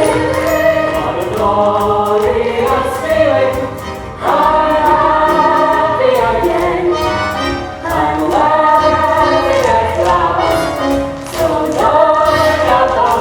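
A musical-theatre cast singing together as a chorus with instrumental accompaniment, in long held phrases with short breaks between them.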